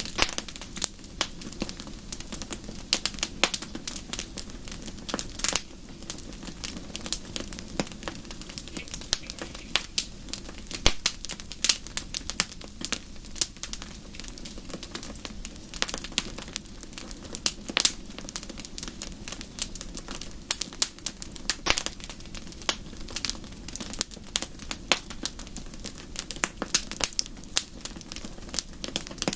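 Wood fire in a fireplace crackling, with frequent irregular sharp pops and snaps over a low steady rush of the flames.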